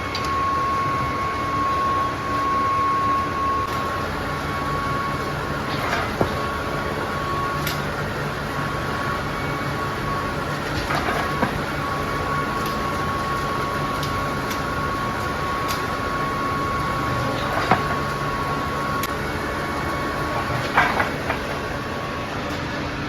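Industrial machinery running in a chain factory: a steady mechanical drone with a continuous whine, and a few sharp knocks at irregular intervals.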